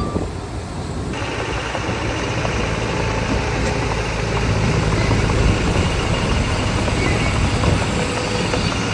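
Heavy diesel earthmoving machinery running steadily, its engine noise slowly growing louder. About a second in, a harsher, higher-pitched layer of mechanical noise abruptly joins it.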